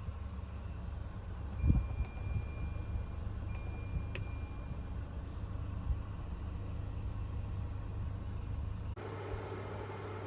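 Steady low hum of a portable air conditioner running, with a knock about two seconds in and two long electronic beeps one after the other. The background changes abruptly near the end.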